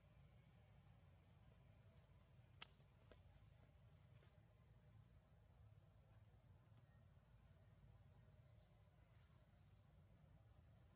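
Faint, steady, high-pitched insect chorus, with a single sharp click about a quarter of the way in.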